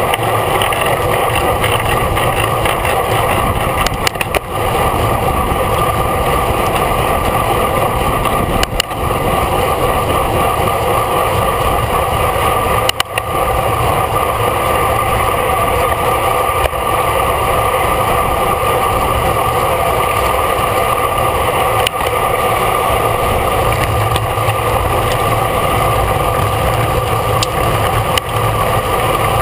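Steady wind rush and road noise on a small action-camera microphone on a racing road bicycle at speed, with a few short knocks.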